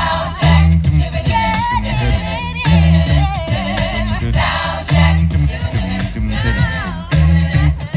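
A cappella group singing in parts, with a heavy low bass part and a steady beat of short sharp strikes.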